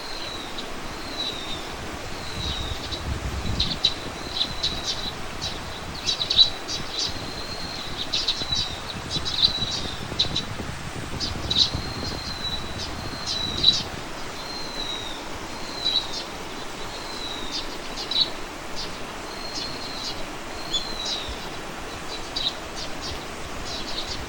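Small birds chirping outdoors: short high chirps and down-slurred call notes repeat every second or so, thickest in the middle, over a faint steady background hiss with now and then a low wind rumble.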